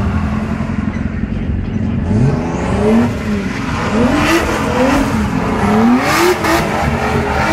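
Drift car's engine revved hard over and over, its pitch climbing and dropping several times in quick succession, with bursts of tyre noise as it slides.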